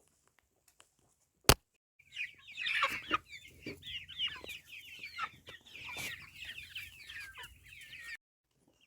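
Local chickens clucking, many short overlapping calls, which stop abruptly near the end. A single sharp click comes about a second and a half in, before the clucking starts.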